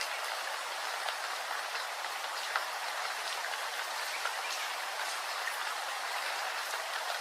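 Steady rainfall: an even hiss of rain with many small individual drops ticking through it.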